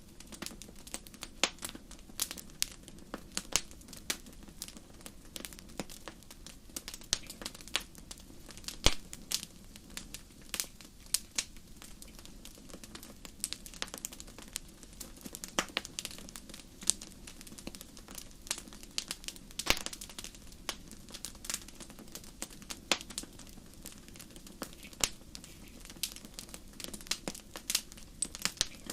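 Wood fire burning in a fireplace, crackling with irregular sharp pops and snaps over a steady low hiss of the flames.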